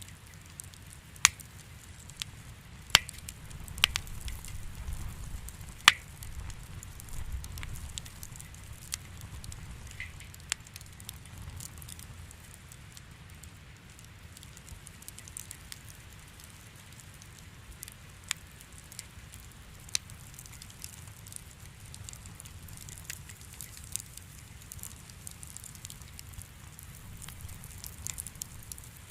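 Wood fire in a fireplace crackling: irregular sharp pops, the loudest in the first six seconds and one more near twenty seconds, over a low steady rumble.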